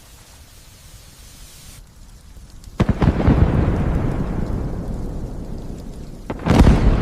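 Light rain hissing, then about three seconds in a sudden thunderclap that rumbles and slowly fades over several seconds. A second loud burst of thunder comes near the end.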